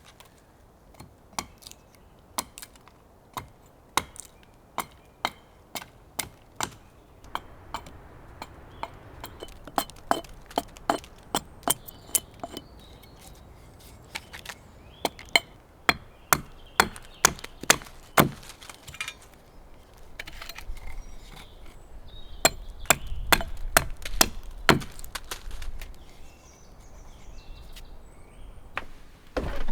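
Wood being chopped with repeated sharp strikes, about one a second at first and quickening to about two a second midway. A low rumble rises in the latter half.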